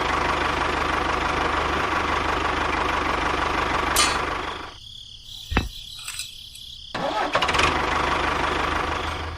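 A small motor running steadily. It cuts out for about two seconds past the middle, with a click as it stops and another during the pause, then starts running again.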